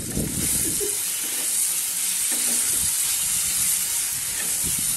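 Thick ground spice paste frying with a steady sizzle in a non-stick pan while a wooden spatula stirs and scrapes it.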